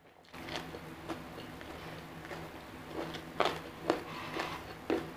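Close-up eating sounds: a mouthful being chewed, with a few sharp crunchy clicks in the second half.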